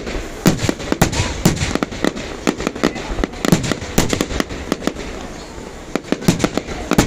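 Fireworks display: a dense, irregular string of loud bangs and cracks, several a second, from aerial shells bursting overhead.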